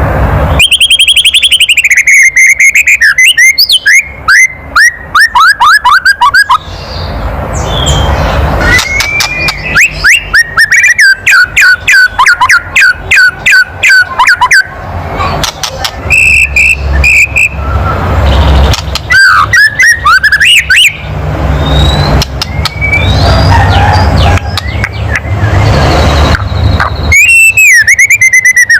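White-rumped shama (murai batu) giving its loud 'kretekan' rattle: several runs of rapid clicking notes, each a few seconds long, mixed with high whistled notes that slide downward. This is the agitated rattle that bird keepers play to provoke a shama into singing.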